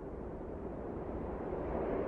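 Blizzard wind blowing in a low, steady rush that slowly swells louder.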